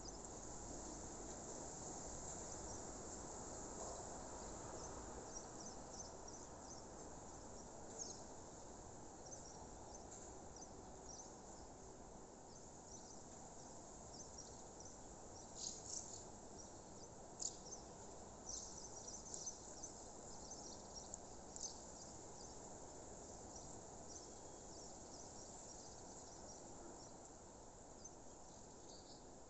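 Crickets chirping steadily and faintly in a high, fast, continuous trill, with a few louder short chirps standing out about halfway through.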